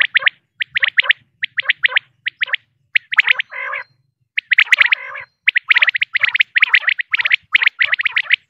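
Female common quail calling: quick clusters of two to four short, sharp high notes, repeated about twice a second. Two short raspy, hissing sounds break in around three and five seconds in.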